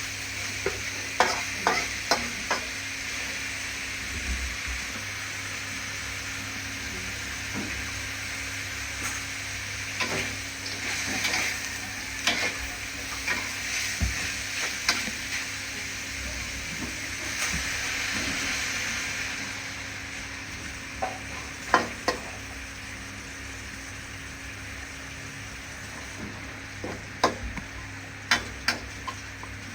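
Pieces of empuna bird frying in a hot pan, sizzling steadily, while a spatula stirs them. Its strikes on the metal give sharp clinks, clustered near the start and near the end. The sizzle eases a little about two-thirds of the way through.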